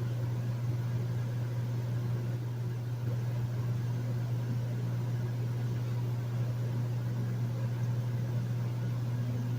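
Hotel room air conditioner running: a steady low hum over an even rush of air.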